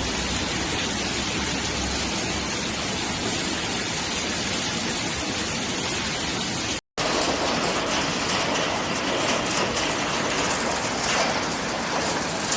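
Hail falling hard: a dense, steady hiss. It cuts out abruptly for a moment about seven seconds in, and after that the hiss is full of rapid fine ticks of stones striking.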